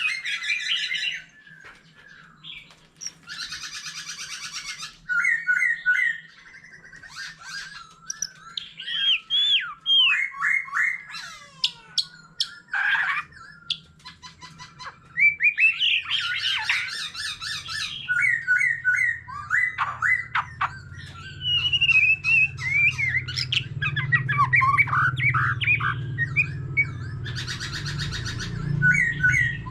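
White-rumped shama singing a long, varied song of clear whistled phrases, fast buzzy trills and sharp rattling notes, broken by short pauses. A low steady hum runs underneath and is stronger in the second half.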